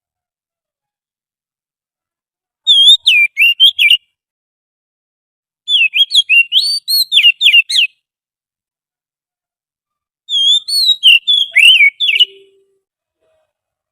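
Oriental magpie-robin song played as a lure call: three short phrases of quick whistled notes that glide up and down, with silent pauses between them.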